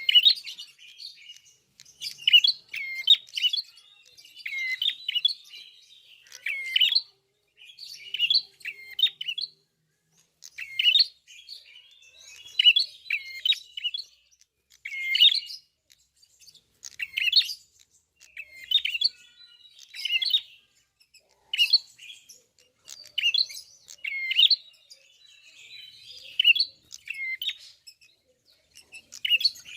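A prenjak kepala merah (klawu) singing in full voice, in short bursts of sharp chirping notes repeated about every second or two.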